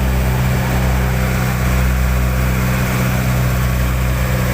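Motorboat engine running steadily at constant speed, a low even drone, with a hiss of wind and water over it.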